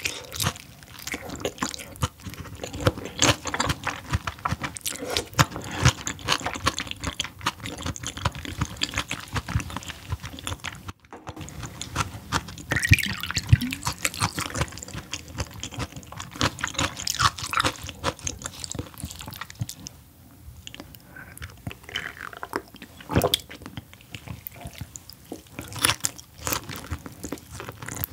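Close-miked chewing and crunching of raw fish sashimi, in many short wet clicks. About halfway through, liquor is poured from a glass bottle into a small glass.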